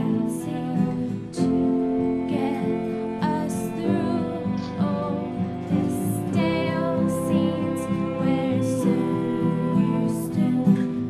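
Live acoustic band music: a female voice singing over guitar and other sustained instruments.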